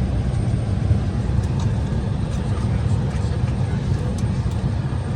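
Steady low rumble of an Embraer E170 cabin sitting at the gate, the sound of its air conditioning and ventilation running, with a few faint clicks over it.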